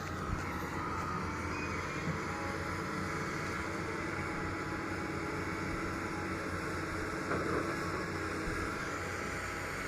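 Doosan DX225LCA excavator's diesel engine running steadily at work, swelling a little about seven seconds in.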